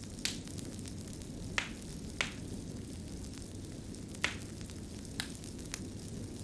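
Fire crackling: a steady low rush of flame with about six sharp pops and snaps scattered through.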